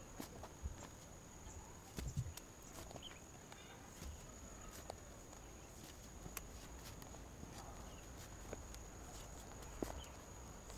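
Faint, irregular crackles and knocks of someone moving about and handling material on a forest floor, over a steady thin high-pitched tone and a low background rumble.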